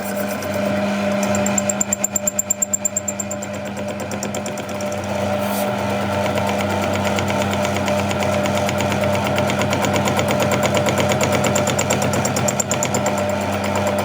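A machine running steadily with a constant hum and a fast, even pulsing rhythm. The pulsing is uneven for a moment about two seconds in, then settles into a dense rapid beat from about halfway through.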